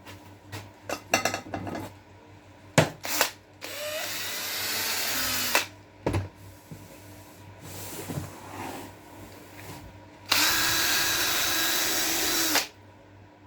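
A handheld power tool runs in two bursts of about two seconds each, with clicks and knocks of tools being handled before and between them. The tool is typical of a drill or grinder being used to strip paint off car bodywork.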